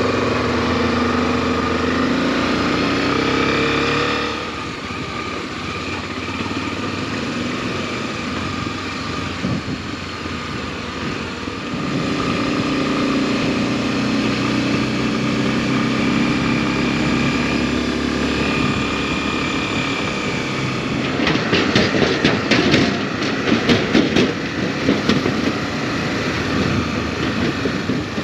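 Honda XRE300's single-cylinder engine running while riding, its note shifting as the pace changes, over steady road and wind noise. Past the middle, a run of irregular knocks and thumps.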